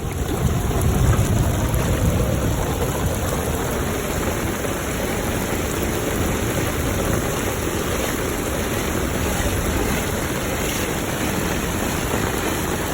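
Heavy rain pouring steadily, an even hiss of water with a low rumble underneath.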